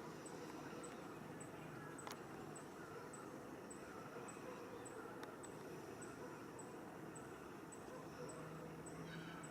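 Faint outdoor ambience: a very high, thin chirp repeating evenly nearly twice a second over a steady hiss, with softer chirps lower in pitch.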